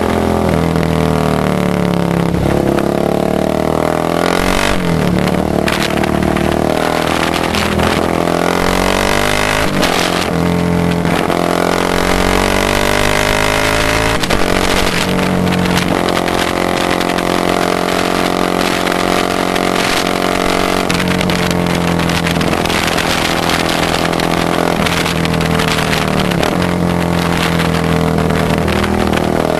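Motorcycle engine running, its pitch falling and rising again every few seconds as the revs change.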